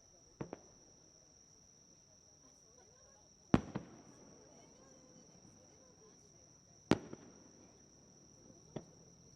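Aerial fireworks shells bursting in four sharp bangs, the loudest about three and a half seconds in, some followed at once by a second crack. A steady high-pitched chirring of insects runs underneath.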